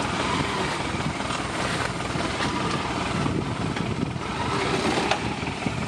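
Off-road 4x4 vehicle's engine running steadily, with a regular low pulsing and no let-up.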